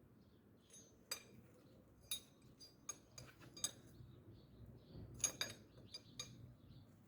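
A handful of light, irregular clinks and ticks from small hard objects knocking together, some ringing briefly, with the loudest about five seconds in.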